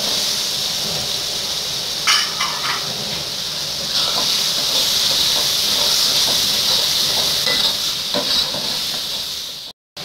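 Spice paste of shallots, garlic, chilli and tomato sizzling in hot oil in a pan as whole stink beans (petai) are stirred in, with a few sharp clacks of the utensil against the pan about two seconds in. The sizzle cuts out abruptly just before the end.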